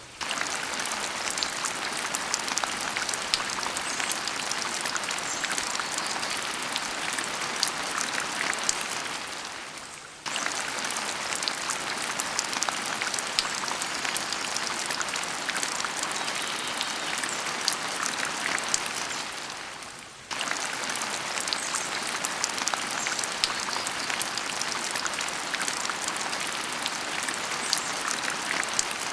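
Steady rain-like hiss with fine pattering ticks. It fades out and restarts abruptly about every ten seconds, like a looped track.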